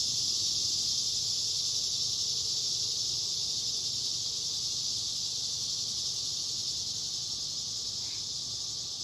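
A chorus of periodical cicadas singing: a steady, high-pitched, unbroken drone that eases off slightly near the end.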